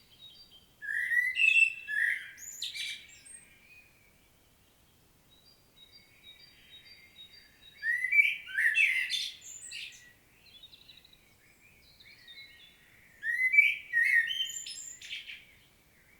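Common blackbird singing: three separate phrases a few seconds apart, each opening with low fluted whistles and ending in a high, squeaky twitter.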